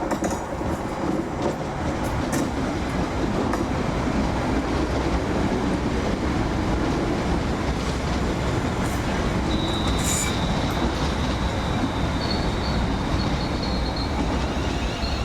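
Train running on the track at a station, a steady rumble of wheels and running gear, with a thin high wheel squeal that sets in about two-thirds of the way through.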